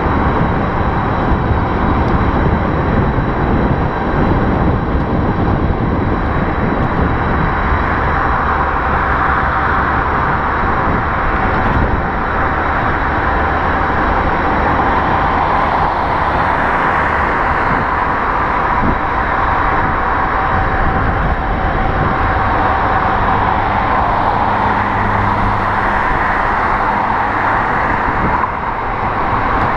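Steady noise of riding a 1000 W electric bicycle along a road, unbroken throughout, with a thin steady tone running through it.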